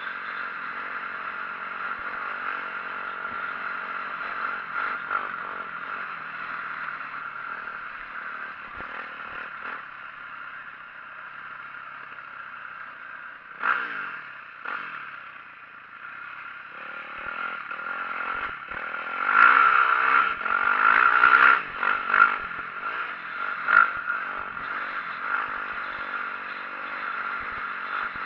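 2004 Yamaha YZ450F dirt bike's four-stroke single-cylinder engine running while being ridden, with clattering and rattling from the bike. It gets louder in surges a little past the middle, loudest a few seconds after that.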